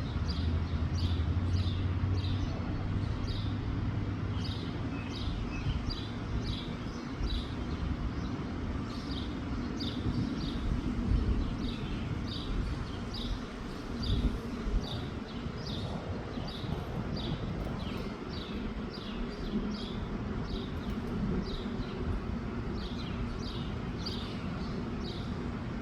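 A bird calling over and over with short, high, downward chirps, a little less than two a second, over a low rumble of wind on the microphone.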